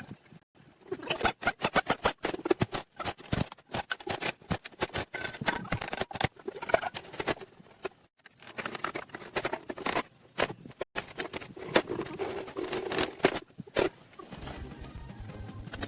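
Rapid, irregular clicking and scraping, broken by a few abrupt cuts.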